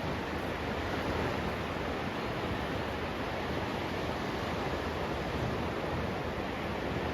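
Steady, even rushing of sea surf at the shore, with no distinct breaks or swells.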